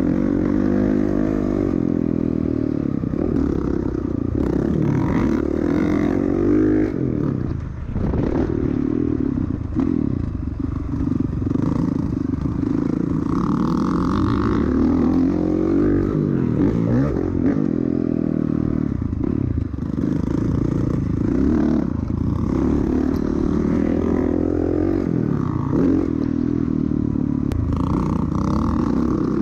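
Honda CRF450R single-cylinder four-stroke dirt bike ridden hard around a motocross track, its engine pitch rising and falling over and over with throttle and gear changes, with rattling from the bike.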